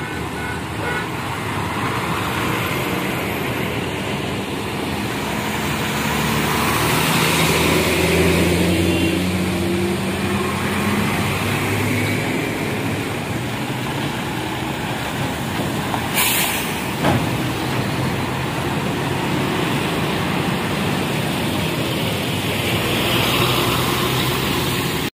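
A sleeper coach bus and a truck passing close by one after the other, their diesel engines and tyres running loud, with the engine note rising slowly partway through. About sixteen seconds in there is a short, sharp hiss of air.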